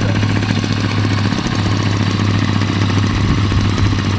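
Small single-cylinder minibike engine running steadily at an even, unchanging speed.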